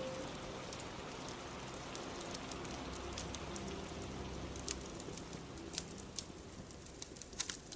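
Steady rain hiss with a fire crackling in it: a few sharp pops, several in the last three seconds.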